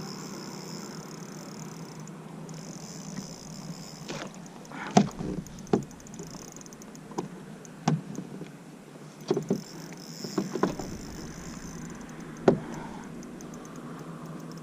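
Knocks and bumps against a kayak hull, about six, irregularly spaced, while a fish is being fought on rod and reel. The loudest come about a third of the way in and near the end, over a steady faint hum.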